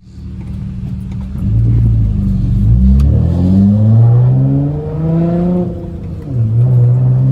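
Straight-piped V6 of a manual Honda Accord accelerating hard, its exhaust note climbing in pitch, dropping at a gear shift about six seconds in, then climbing again.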